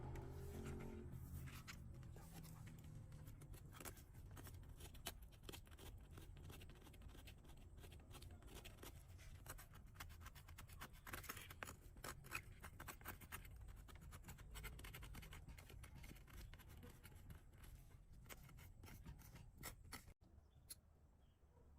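Faint, irregular scraping and clicking of a cow's hoof being trimmed, a blade cutting and paring the hoof horn in short strokes. It drops quieter near the end.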